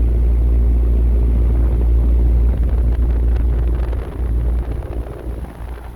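Carrier rooftop package unit running, its condenser fan and compressors giving a loud steady low hum with several steady tones. About halfway through the hum thins and turns uneven, the level dropping.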